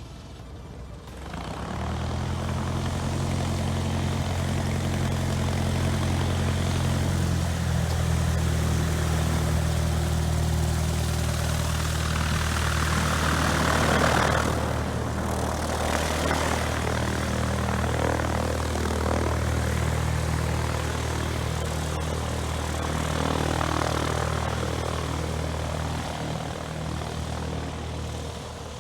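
Light propeller aircraft engine running steadily. Its pitch steps down once, about seven seconds in, and there is a swell of rushing noise around the middle.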